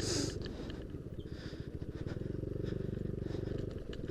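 Yamaha Aerox scooter's single-cylinder engine running under load on a rough dirt track, its pitch and loudness rising and easing. There is a short hiss at the very start.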